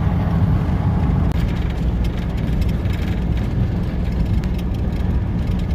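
Cab interior of a 2019 Ram 5500 descending a steep grade: its 6.7-litre Cummins turbo-diesel runs with a steady low drone while the exhaust brake holds the truck back, mixed with road and wind noise. The sound drops out for an instant a little over a second in.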